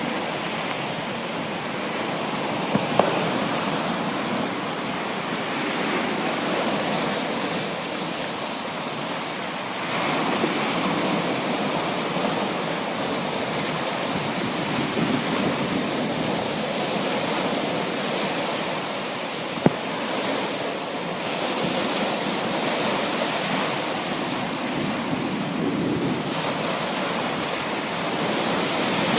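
Sea surf: waves breaking and washing in, a steady rush that swells and eases every several seconds. Two brief clicks, one about three seconds in and one about twenty seconds in.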